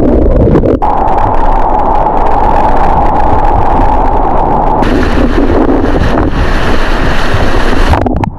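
Rushing white water, with wind buffeting the microphone. From about five seconds in until near the end, a brighter hiss of splashing water.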